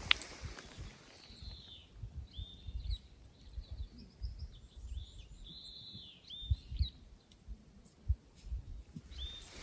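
A bird calling repeatedly in short whistled notes, over irregular low thuds and rumble, with a sharp click right at the start.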